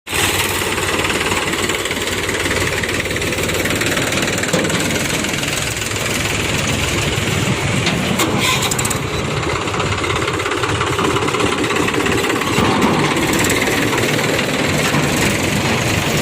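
Diesel engines of a backhoe loader and a tractor running, loud and steady.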